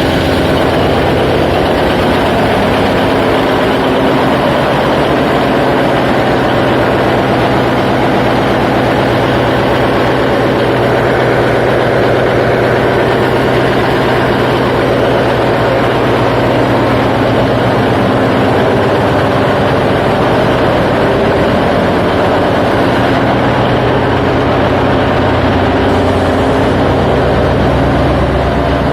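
Ship's diesel engine running steadily, loud and unchanging, heard in the engine room.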